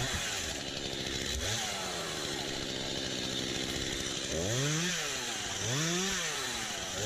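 Stihl MS 251 C two-stroke chainsaw running. Its engine rises in pitch, holds steady for a couple of seconds, then revs up and back down three times in the second half.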